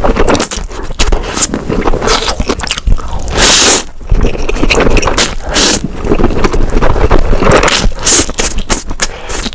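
Close-miked eating noises: irregular wet chewing, crunching and clicking as someone eats noodles, with one longer, louder burst of noise about three and a half seconds in.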